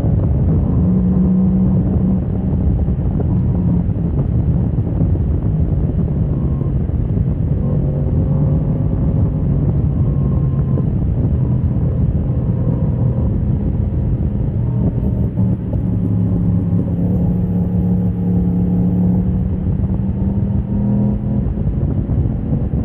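Motorcycle engine heard from onboard, running continuously with its note stepping and sliding up and down as the revs change, over low rumbling wind and road noise.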